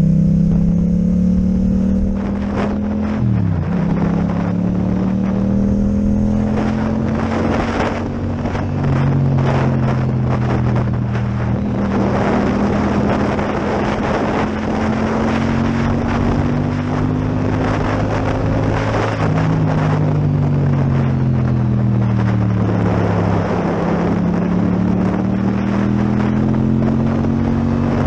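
Yamaha MT-07 parallel-twin engine with an Akrapovic exhaust, heard on board while riding over a steady rush of wind noise. The engine pitch rises and falls with the throttle and gear changes, dipping sharply about three seconds in.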